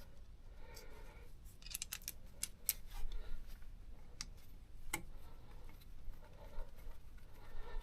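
A few light, scattered clicks and taps of tools and parts being handled, bunched about two seconds in, with single sharper ones a little later.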